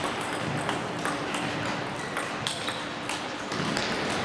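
Table tennis balls clicking off bats and tables at several tables at once: many short, irregular, overlapping clicks over a low background hubbub.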